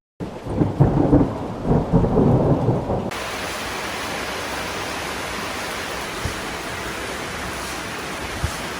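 Thunder rumbling low and unevenly, then a steady, even hiss of heavy rain that starts suddenly about three seconds in.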